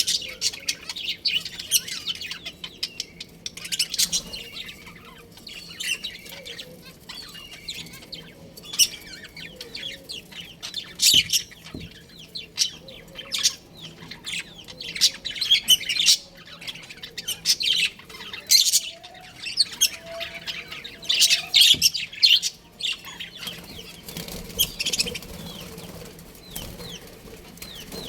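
Budgerigars chirping and warbling continuously, a fast jumble of short high chirps that swells into louder bursts now and then and eases off near the end.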